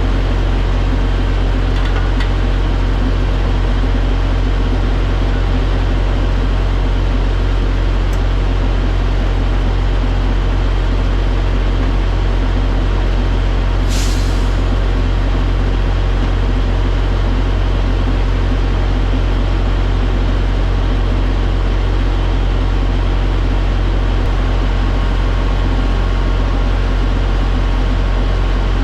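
Semi-truck's diesel engine running with a steady low drone while driving, with a brief hiss of air about halfway through.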